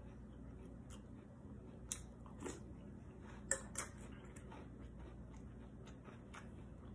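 A person chewing a mouthful of cereal in milk, with a few short clicks of a metal spoon against the bowl, the sharpest two close together about three and a half seconds in.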